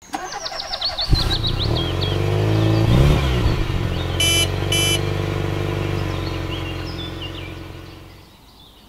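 Truck engine running steadily, with quick bird chirps at the start, a brief rise and fall in engine pitch about three seconds in, and two short beeps about a second later; the engine fades away near the end.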